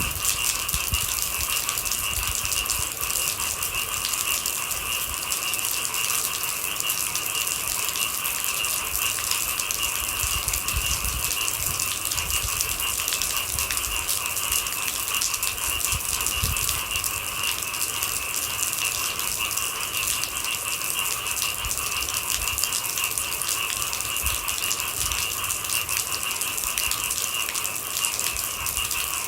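Steady rain, a dense patter of drops, with a continuous chorus of night insects holding two high pitches over it.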